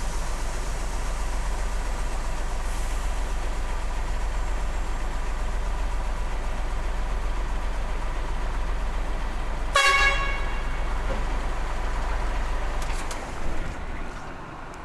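Remote-control truck running with a steady low engine rumble, giving one short horn toot about ten seconds in; the engine sound dies away near the end.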